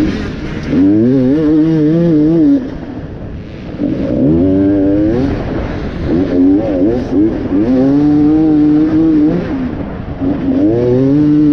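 Enduro dirt bike engine on a race lap, revving hard in about five bursts, its pitch climbing under throttle and dropping off between them as the rider gets on and off the gas.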